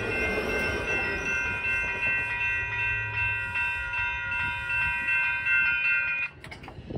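SMART commuter railcar rumbling past through a grade crossing while the crossing's bell rings steadily. The bell cuts off suddenly about six seconds in as the train clears.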